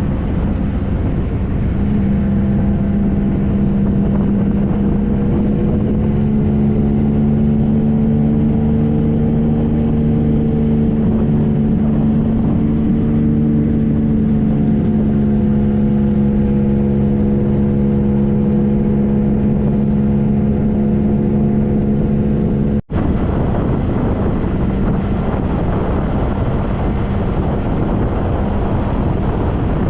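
Onboard ride sound of a 2013 Triumph Trophy SE: its inline-three engine runs at a steady pitch under loud wind rush on the microphone. There is a brief dropout about two-thirds of the way in, after which the wind noise covers the engine more.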